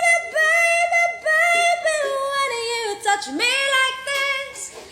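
A woman singing in a strong, belted voice, holding high notes.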